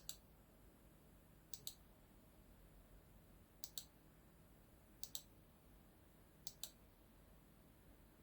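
Computer mouse clicking: five quick pairs of clicks, roughly a second and a half apart, over near silence.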